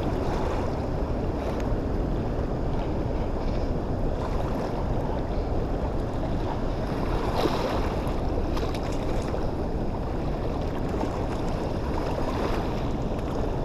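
Steady wind and rushing water noise, heaviest in the low rumble, with wind buffeting the microphone.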